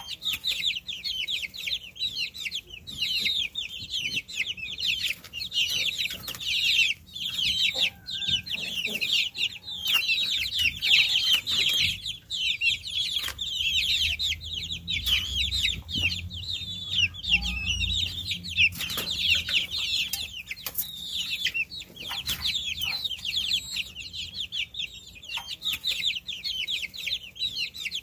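A brood of baby chicks peeping: many short, high, falling chirps overlapping without a break.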